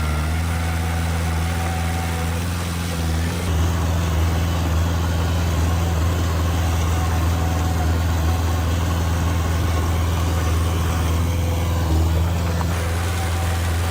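Heavy diesel construction machinery engine running steadily. About three seconds in, a denser, rougher noise joins it and lasts until near the end.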